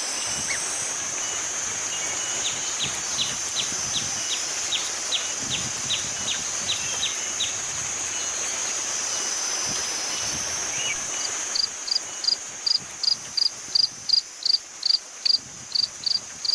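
Forest insects calling: a steady high-pitched drone, with a run of quick repeated chirps in the first half. About two-thirds through, a louder pulsing call starts, about three beats a second.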